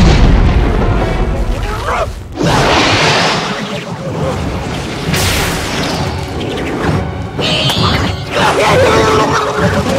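Film soundtrack: music mixed with loud booms and crashing effects, with snatches of voice.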